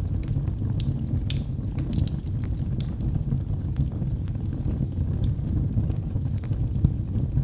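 Wood fire burning in a fireplace: a steady low rumble of flames with scattered sharp crackles and pops of the burning logs.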